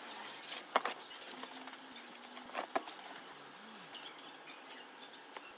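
Faint, scattered clicks and light clinks of small metal parts and hand tools being handled during work on the welding machine's rectifier bridge.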